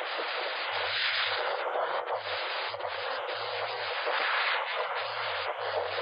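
Steady rushing noise of storm-force wind, with low, uneven buffeting on the microphone coming and going.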